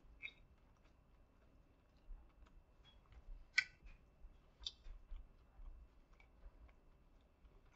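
Faint chewing of a cinnamon-sugar churro: soft mouth clicks and light crunches, with the loudest click about three and a half seconds in and another about a second later.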